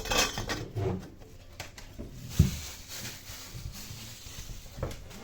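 Handling and knocking noises from installation work, with a scraping hiss at the start, one heavy low thump about two and a half seconds in, and a few lighter knocks near the end.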